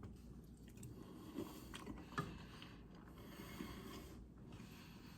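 Faint chewing and mouth sounds of someone eating a spoonful of macaroni and cheese, with a few soft clicks.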